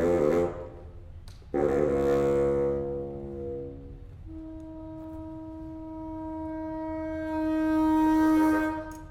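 Contemporary chamber music for solo bassoon and ensemble of flute, clarinet, harp, piano and strings. A dense wavering chord breaks off, a loud chord sounds and fades, then a single long woodwind note swells louder and stops near the end.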